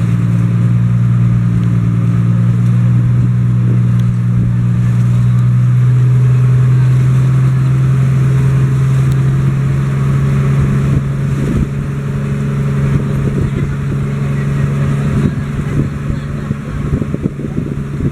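Passenger boat's engine running steadily underway, its pitch stepping up slightly about six seconds in and its loudness easing a little in the second half.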